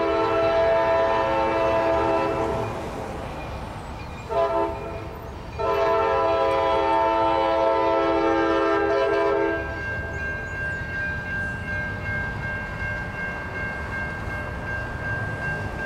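Freight locomotive's multi-chime air horn blowing: a long blast that stops, a short blast, then another long blast, the closing pattern of a grade-crossing signal. After the horn stops, a low rumble of the train with a steady high whine runs on.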